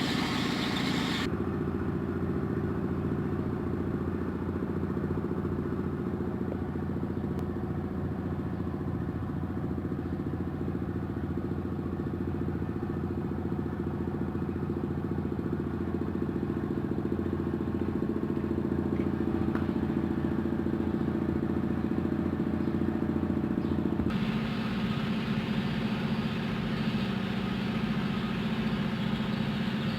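Mitsubishi Strada L200 engine running steadily at idle. Its tone shifts abruptly twice, about a second in and again near the end.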